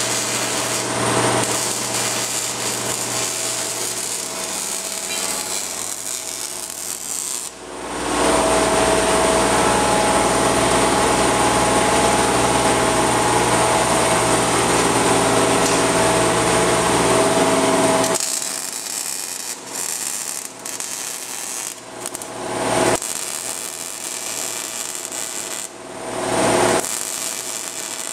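A handheld power tool cutting steel bracket stock, running in stretches. It is loudest and steadiest for about ten seconds in the middle, then works on in shorter, choppier runs.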